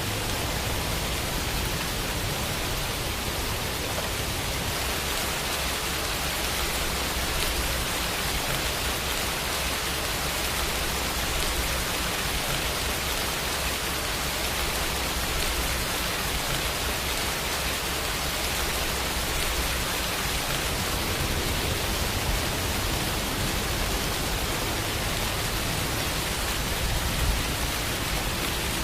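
Steady rainfall: an even hiss of rain with a low rumble underneath, one slightly louder patter near the end.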